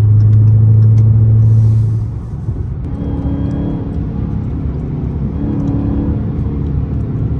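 Dodge Charger Hellcat's supercharged 6.2-litre HEMI V8 with its mid muffler deleted, driving: a loud, steady low exhaust drone for about two seconds that then drops off, followed by a quieter, steady engine note.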